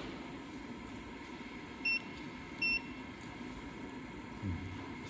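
Two short electronic beeps about three quarters of a second apart, from the control panel of a semi-automatic USB cable soldering machine as its buttons are pressed, over a steady low machine background.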